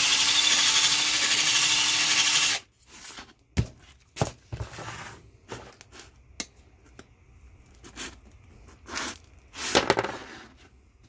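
Power drill running at a steady speed, cutting off about two and a half seconds in. After that come scattered clicks, knocks and scraping as parts and tools are handled.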